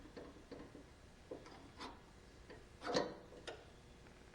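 Scattered light clicks and taps of mower lap-bar parts and tools being handled, with one louder knock about three seconds in.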